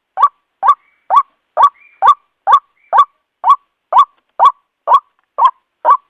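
White-breasted waterhen (Amaurornis phoenicurus) calling: a loud, steady series of short, upward-gliding 'kwak' notes, about two a second. It is a clean recording of the call played as a trapping lure.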